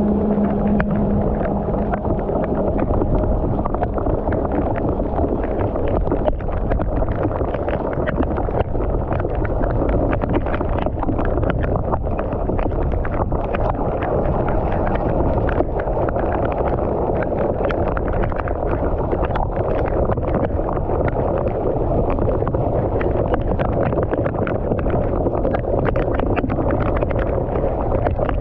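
Fast-flowing water rushing and gurgling steadily, a constant noisy rush with small splashes throughout.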